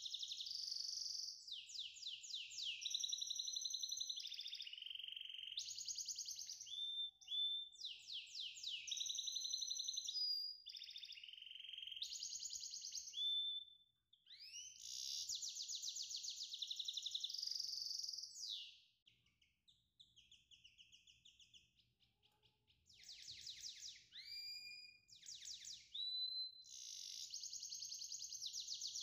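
A songbird singing in fast trills, chirps and short rising whistles, pausing briefly near the middle and again in the second half.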